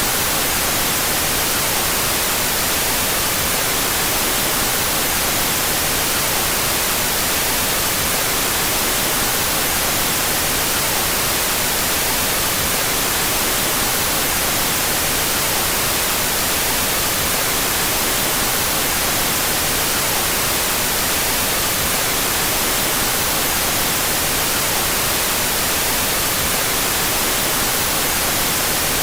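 Steady white noise: a constant, even hiss, strongest in the high frequencies, with no change or break. It is played with the left and right channels out of phase.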